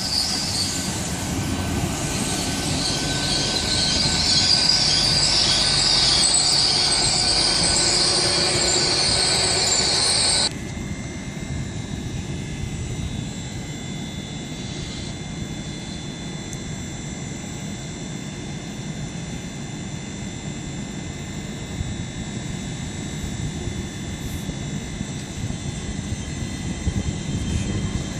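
Passenger train moving through the station, with high-pitched wheel squeal or whine over a rumble that grows louder, cutting off suddenly about ten seconds in to a quieter steady rumble with faint steady tones.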